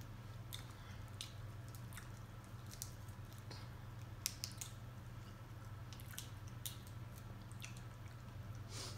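A person chewing a seafood boil in buttery sauce close to the microphone: scattered small wet smacks and clicks. A steady low hum runs underneath.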